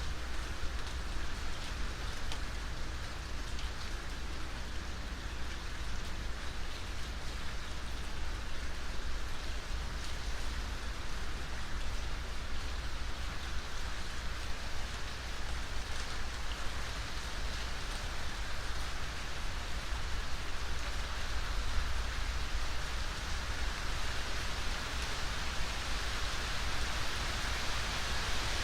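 Steady rain falling: an even hiss of rain on surfaces with scattered individual drop ticks and a low rumble underneath.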